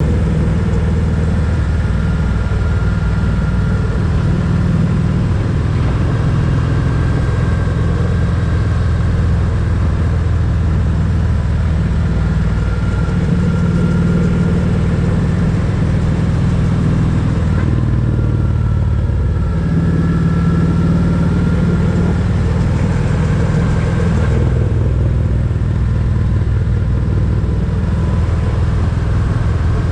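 Motorcycle engine running under way on a ride, its pitch changing around the middle and again a few seconds later as the rider shifts or changes speed.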